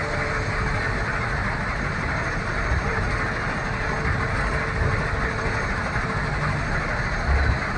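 Heavy ten-wheel dump truck's diesel engine running with a steady rumble and mechanical noise, with a brief louder low thump near the end.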